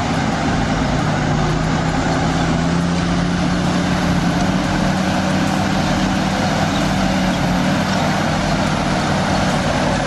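A motor vehicle's engine running steadily, a continuous drone with a low hum that holds its pitch.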